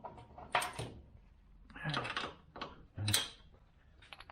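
Metal tools and parts being handled, with a few separate sharp clanks and knocks, as someone rummages for a tool.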